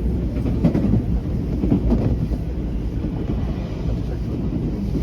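Inside the cabin of a JR West 323 series electric train running between stations: a steady low rumble of wheels on rail, with a few short knocks in the first two seconds.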